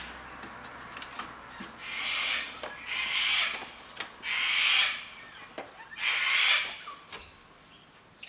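A bird calling repeatedly from outside through open doors: four drawn-out harsh calls, each under a second, coming every second or so.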